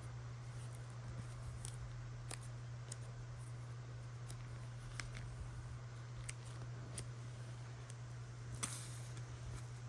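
Scattered light clicks and taps of stationery being handled during journaling, about eight spread irregularly, over a steady low hum.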